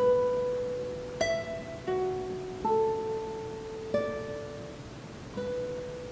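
Classical guitar quartet playing sparse single plucked notes, one about every second, each ringing and left to die away.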